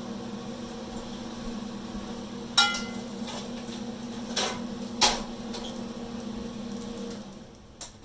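Kitchenware clanking: three sharp knocks of metal on cookware or dishes, the first and loudest ringing on briefly. Under them a steady low hum from a kitchen appliance runs on and stops shortly before the end.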